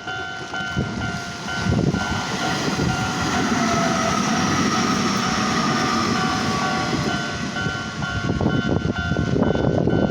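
A Japanese level crossing's warning bell ringing in a steady pulsing beat while a train passes through the crossing. The train's running noise swamps the bell from about two seconds in and carries a slowly falling whine. Near the end the bell is heard again over the clatter of wheels on the rails.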